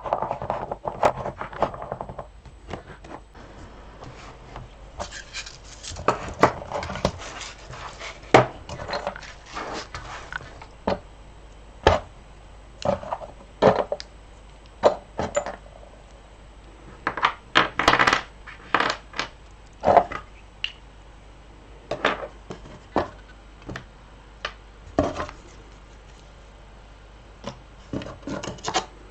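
Sewing supplies handled and sorted in a sewing box: irregular clicks, knocks and light clatters of small hard items being picked up and set down, with stretches of scraping and rustling.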